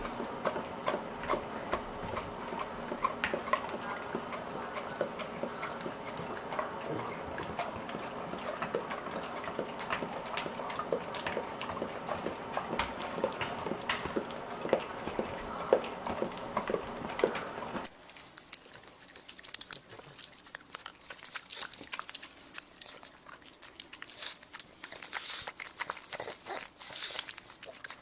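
Dogs licking and smacking their mouths on sticky peanut butter: a steady run of quick wet clicks. About two-thirds of the way through, the background hum drops away and the clicks come sharper.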